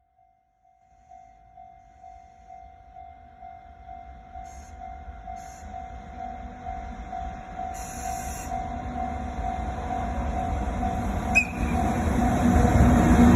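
Japanese level-crossing alarm ringing a steady, rapidly repeated bell tone while a train hauled by an EF64 electric locomotive approaches. The train's rumble starts about a second in and grows steadily louder.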